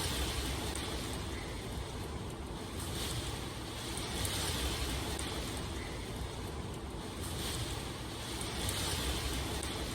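Steady rain falling: a continuous hiss over a low rumble, swelling slightly every few seconds.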